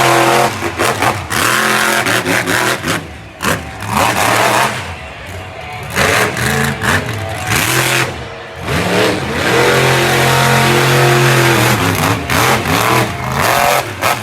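Monster truck engine revving hard in repeated bursts, pitch climbing and dropping, with a longer held run at full power in the second half.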